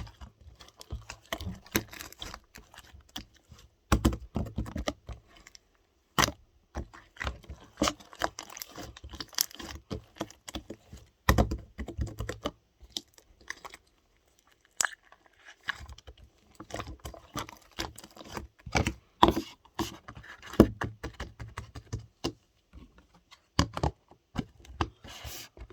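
Slime being squished and pressed by hand, with dense, irregular small clicks and pops from trapped air.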